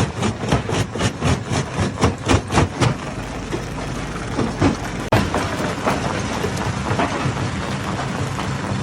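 Rapid hammer blows on jammed rock, about three a second, stop about three seconds in. After that the stone crusher runs steadily with a low hum, and one sharp knock comes about five seconds in.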